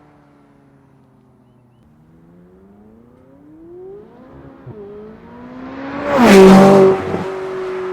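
McLaren 570S twin-turbo V8 accelerating toward and past: the engine note climbs for a few seconds, dips briefly around the middle, and is loudest about six seconds in as the car goes by, then settles into a fading, falling note.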